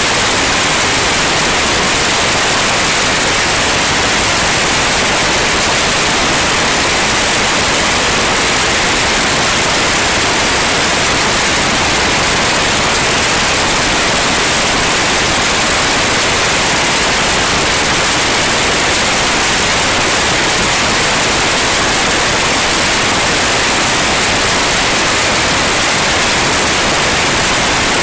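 Loud, steady hiss of noise that does not change, with no engine note or other tone standing out.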